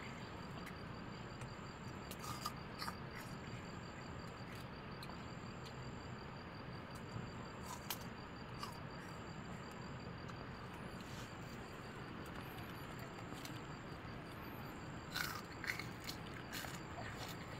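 Faint steady hiss with scattered light clicks and scrapes, a few close together near the end.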